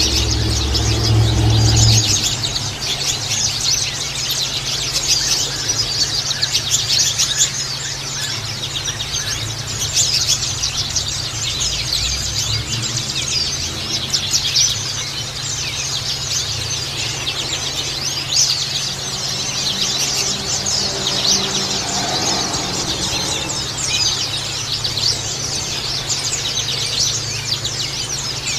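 A flock of white-eyes (pleci) chirping together: a dense, continuous twittering of many short, high calls overlapping. A steady low hum runs underneath, louder for the first two seconds.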